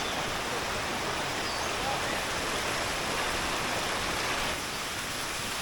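Fast-flowing jungle stream rushing steadily over rocks, a little quieter about four and a half seconds in.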